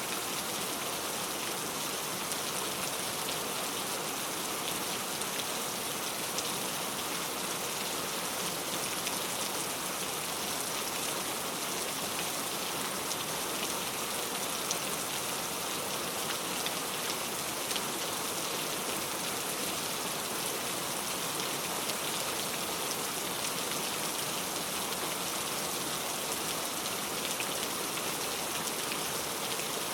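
Heavy rain falling steadily, a dense even hiss of drops with faint individual patters.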